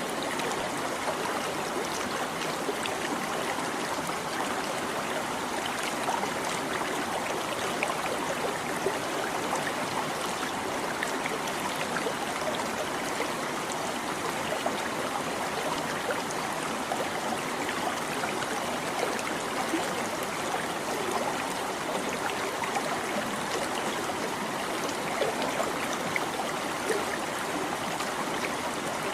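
A small stream babbling steadily over stones, with a continuous trickle and gurgle of running water.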